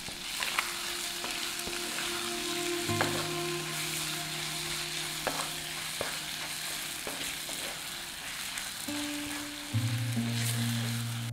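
Thick onion-tomato masala and boiled quail eggs sizzling in a cast-iron kadai as they are stirred with a wooden spatula, with occasional sharp knocks and scrapes of the spatula against the pan. Soft background music with long held notes plays underneath.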